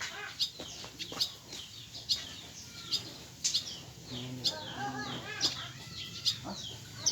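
Small birds chirping repeatedly, short high notes falling in pitch about twice a second, with a lower, fuller call, such as a chicken's, rising and falling between about four and six seconds in.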